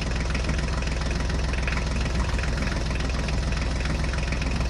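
Tractor engine sound effect, an engine idling with a steady, fast chugging beat.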